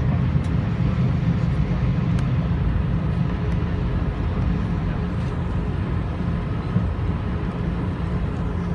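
Steady low rumble of an Airbus A320, with no rise or change in pitch.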